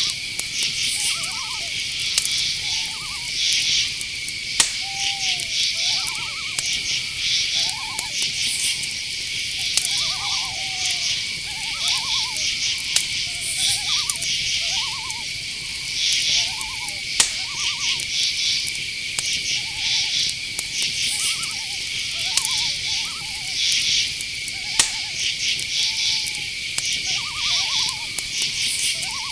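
Night-forest chorus of crickets and other insects: a steady high trill with pulsed chirring above it. Short pitched calls repeat every second or two, with a few sharp ticks now and then.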